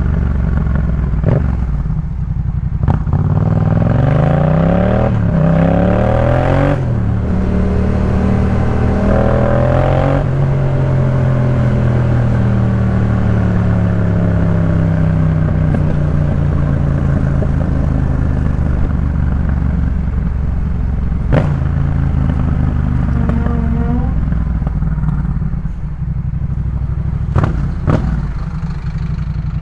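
Yamaha MT-07's parallel-twin engine through a Jeskap K4 full aftermarket exhaust while riding: the revs climb over the first several seconds, then settle into a steady run with the pitch slowly easing off. A few sharp clicks cut through near the start and again near the end.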